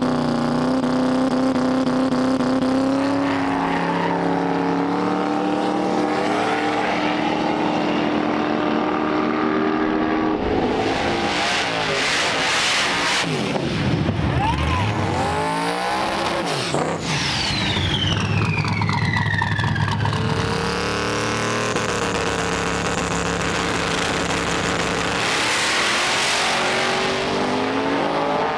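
Drag race cars' engines running, then a loud stretch about eleven seconds in as cars launch and go past, with the pitch sweeping down as they pass; steady engine sound resumes afterwards.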